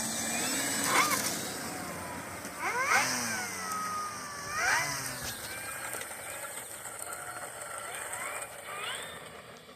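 Electric motors and propellers of RC warbird models whining. The pitch rises sharply about three seconds in, again near five seconds and near nine seconds, and falls away in between as the throttle is opened and eased.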